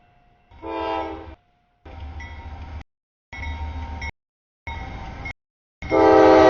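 Freight locomotive horn sounding about a second in, then short bursts of train rumble, then a louder horn blast near the end. The sound comes in chopped pieces separated by abrupt silences.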